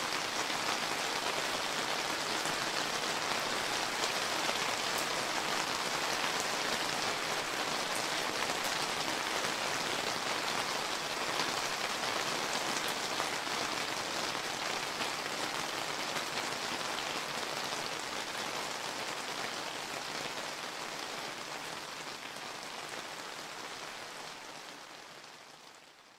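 Steady summer rain falling and pattering on surfaces, a dense even hiss with fine drop ticks, fading out over the last few seconds.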